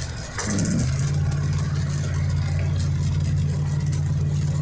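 Car engine heard from inside the cabin while driving: a steady low drone whose pitch drops about half a second in, then holds.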